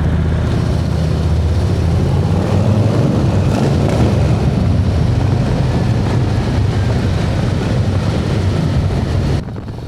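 Harley-Davidson V-twin motorcycle engine running under way, its pitch rising a couple of seconds in as it accelerates, with the road and wind noise of riding through a tunnel. The sound drops off suddenly near the end.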